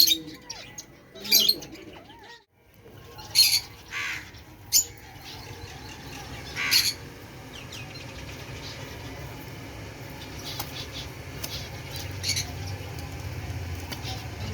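Caged pet birds giving short, sharp squawks, five or so in the first half and one more near the end, over a steady low hum.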